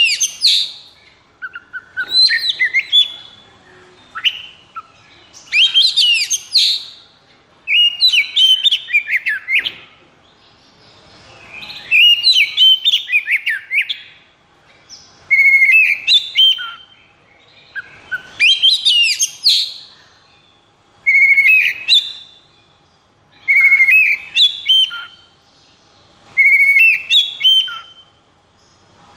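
Oriental magpie-robin (kacer) singing in short, loud phrases of quick whistles and rattling notes, a new phrase every two to three seconds. This is the excited, rapid-fire "konslet" song used as a lure recording to provoke other magpie-robins into singing.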